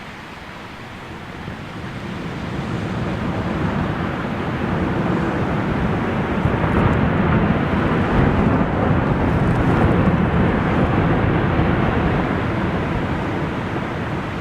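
Snow avalanche rumbling: a deep rushing roar that builds over several seconds, holds loud, then starts to ease off.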